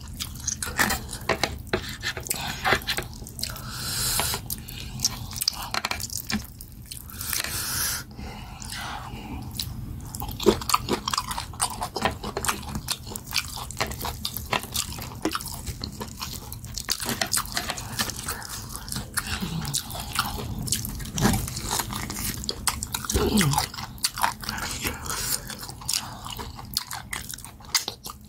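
Close-up eating sounds of goat head meat being bitten and chewed, wet and irregular with many quick clicks.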